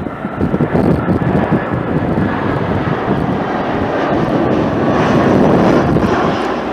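Jet airliner passing, its engine rumble building to its loudest about five seconds in, with wind buffeting the microphone.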